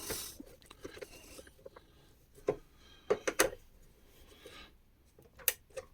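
Faint handling noise from working on a site radio's plastic casing and wiring: a soft rasping hiss in the first second or so, then a few scattered light clicks and knocks.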